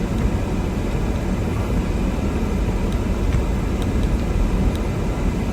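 Steady low rumble of a Toyota Tundra pickup heard from inside the cab, driving slowly through snow in first gear and four-wheel drive, with a few faint ticks over it.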